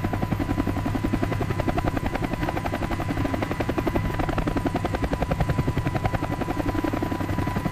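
Helicopter running overhead: a fast, steady rotor chop with a thin steady whine over it.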